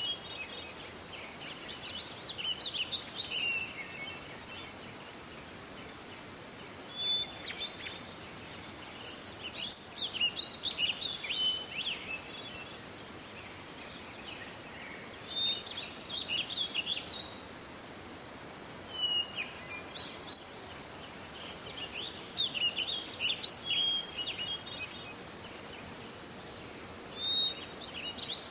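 A songbird singing short, varied warbling phrases, one every few seconds, over steady outdoor background noise.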